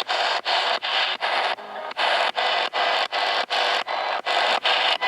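Spirit box sweeping rapidly through radio stations: a chopped run of static and radio fragments cut by short gaps several times a second, with a brief quieter dip just under two seconds in.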